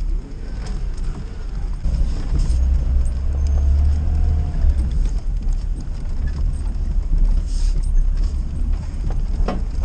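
Car driving over rough off-road ground: a steady low rumble with a few knocks and rattles as it jolts.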